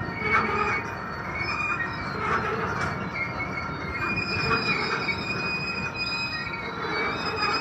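Freight train of autorack cars rolling slowly past, steel wheels on rail with a steady high squeal over the rumble of the cars.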